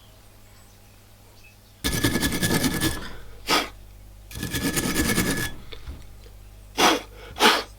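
Rust being scrubbed off an old seized wrench: two rasping bursts of about a second each, then three short scraping strokes, the last two close together near the end.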